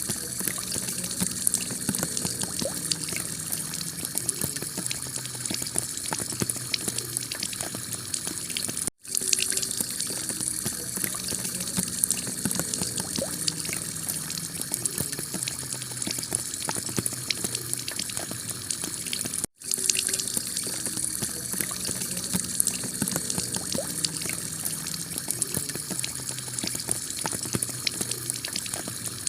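Heavy rain falling on a clay-tile roof: a steady wash of water with dense ticking drops. It cuts out for an instant twice, about nine and nineteen seconds in.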